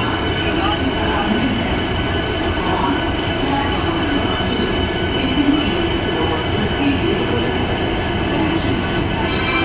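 Vande Bharat Express electric trainset arriving along the platform: a steady loud rumble of rolling wheels, with level high squealing tones held over it.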